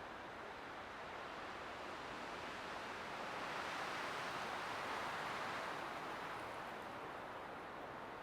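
Light wind blowing steadily, rising in a gentle gust partway through and then easing back.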